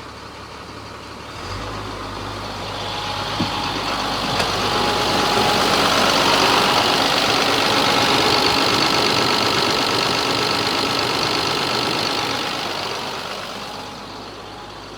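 Caterpillar 7.2-liter diesel engine of a 2000 GMC C6500 truck revving up from idle, held at high revs for several seconds, then easing back down to idle.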